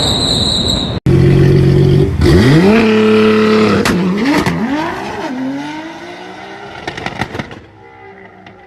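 High-performance car engine revving up sharply about two seconds in and holding high revs. After a brief dip and climb, its pitch falls away as it fades out over the last few seconds.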